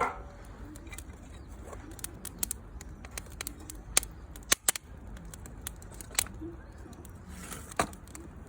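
Wood campfire crackling: sharp, irregular pops and snaps over a low steady rush, with a few louder pops about four seconds in.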